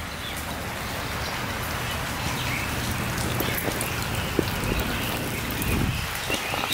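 Steady rain falling, with scattered drops striking nearby surfaces and a brief low rumble near the end.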